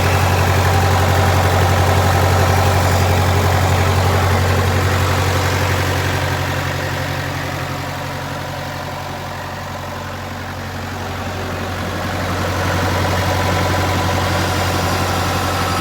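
Bobcat 7753 skid steer's Kubota diesel engine running steadily at idle, dropping somewhat in loudness around the middle and coming back up near the end.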